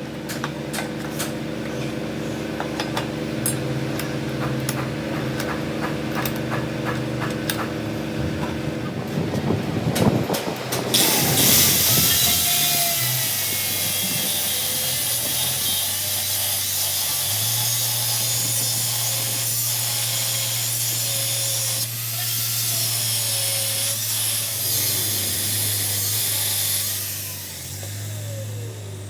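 Workshop machinery: a steady machine hum with rapid clicking, then, about eleven seconds in, a loud high hiss of a power tool working metal that runs until near the end.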